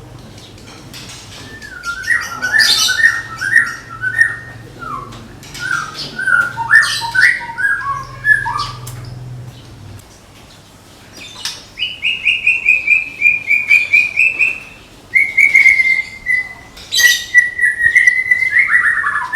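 White-rumped shama (murai batu, Medan type) singing in bursts: varied whistled phrases first, then fast runs of rapidly repeated notes from about halfway through.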